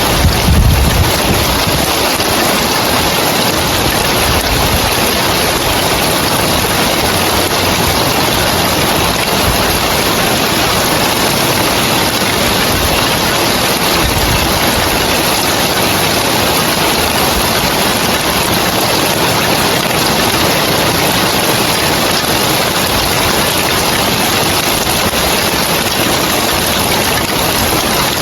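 Heavy rain falling steadily on clay roof tiles, an even, dense hiss. A brief low rumble sounds in the first second.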